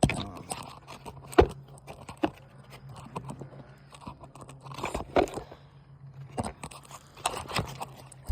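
Asphalt shingle being pried loose from its sealant strip: irregular crunching and scraping with a few sharp cracks, the loudest about 1.4 seconds in. The shingle is tearing as it is lifted, a failed repair caused by mat transfer bonding it down.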